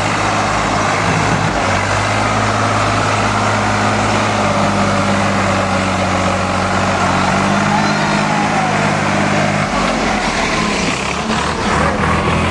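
Swaraj tractor's diesel engine running at a steady pitch, its note changing about ten seconds in, while the tractor is stuck in deep mud.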